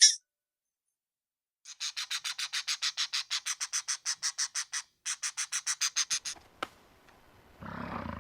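An animal's rapid chattering call: two runs of sharp, evenly spaced chirps, about eight a second, with a short pause between them. Near the end a deep roar begins.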